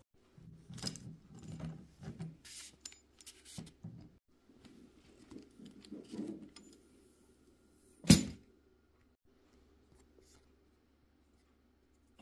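Telescopic trekking pole rattling and clinking as it is moved, its loose inner sections knocking inside the tube, followed by one sharp, loud knock about eight seconds in.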